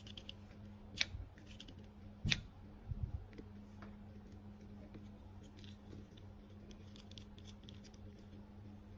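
Handling of a plastic phone holder: two sharp clicks about one and two seconds in, a few soft knocks just after, then faint small clicks, over a steady low electrical hum.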